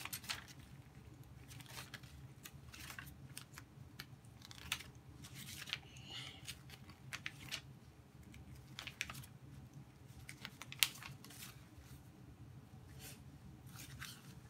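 Plastic LEGO pieces being handled: scattered small clicks and rattles, with one sharper click about eleven seconds in.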